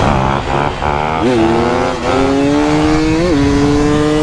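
Two-stroke dirt bike engine revving up through the first second or so, then running at a steady, loud throttle with a few short blips.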